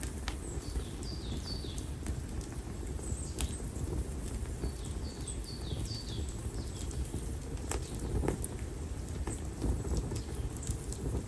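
Konara oak firewood burning in an open bonfire: a low steady rumble of flame with scattered sharp crackles and pops. In the background there are two short runs of high, falling chirps.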